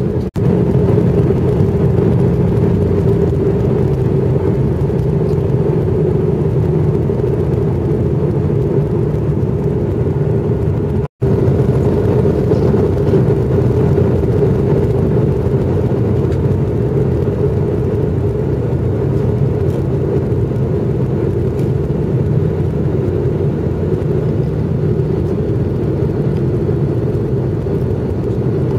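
Steady jet airliner cabin noise on approach: a constant engine hum over the rush of air past the fuselage. The sound cuts out for an instant about eleven seconds in.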